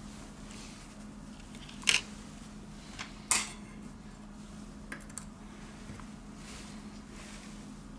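Two sharp clicks and a few faint taps from small phone parts and tools being handled during reassembly, over a steady low hum.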